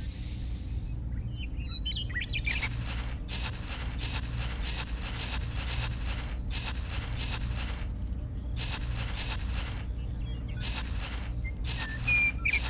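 Small metal scraper digging and scooping dry, sandy soil in a series of scraping strokes, with a few bird chirps near the start and near the end over a low steady hum.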